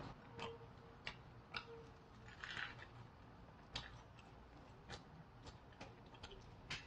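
Faint chewing and soft wet mouth clicks of people eating Vietnamese rice-paper spring rolls, scattered smacks about once a second.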